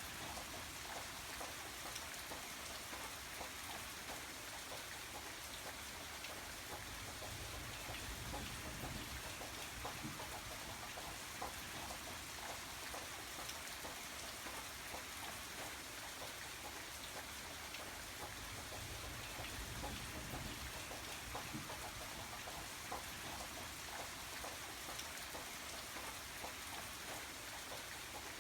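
Steady rain falling, an even hiss with many small drop ticks and a soft low rumble that swells now and then.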